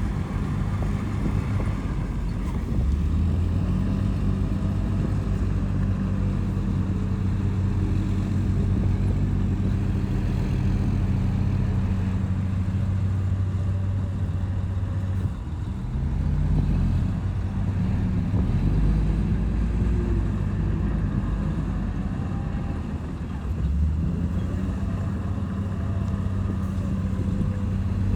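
Bulldozer's diesel engine running steadily under load, its pitch sagging and picking up again about halfway through and once more near the end.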